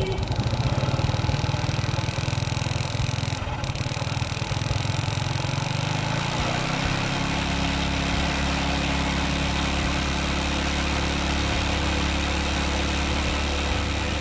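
Small motorbike engine running steadily. About seven seconds in it settles to a lower, even note.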